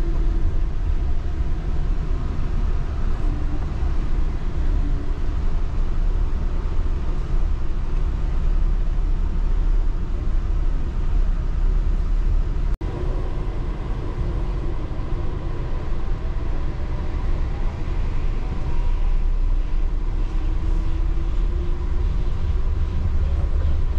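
Interior running noise of a Yurikamome rubber-tyred automated train on its elevated guideway: a steady low rumble with faint motor whines that come and go. The sound drops out for an instant about halfway through.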